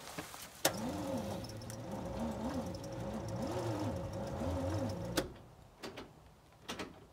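The starter motor on a 1965 Chevrolet C10 engages with a click and cranks the engine very slowly for about four and a half seconds, then cuts off with another click. It is a steady whine over a low pitch that wavers up and down as the engine turns. The sluggish cranking is a sign that the starter is weak or the engine is partly seized, and the owners suspect the starter.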